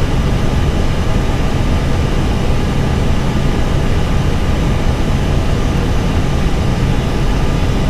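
Steady flight-deck noise of an Airbus A320 in flight on approach: a constant rush of airflow and engine drone, heaviest in the low end, with a faint steady whine above it.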